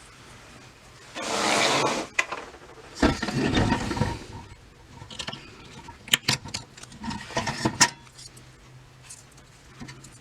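Metal parts being handled: two bursts of scraping, rattling noise, then a run of sharp metallic clinks and clicks.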